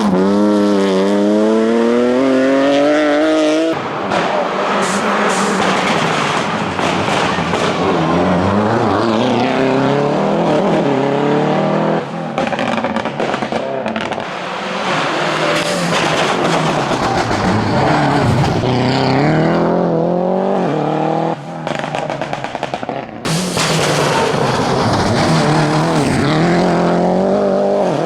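Hillclimb race cars accelerating hard at full throttle, the engine pitch climbing again and again with gear changes. For the first few seconds it is a BMW M3 E36. After a sudden change about four seconds in, it is a turbocharged Opel Ascona 2.0 revving up through the gears.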